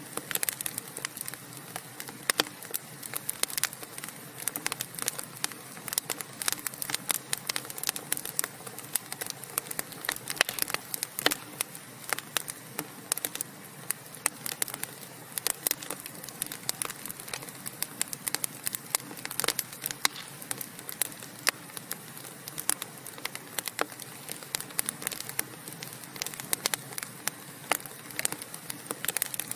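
Wood fire burning, crackling with many quick, irregular sharp pops over a steady soft hiss.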